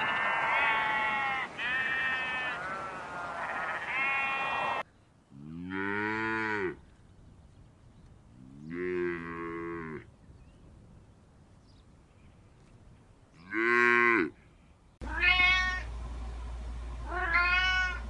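A run of overlapping high bleating calls, which stops abruptly about five seconds in. Then a cow moos three times, each moo a long low call that rises and falls. After a cut, a domestic cat meows twice over a steady low hum.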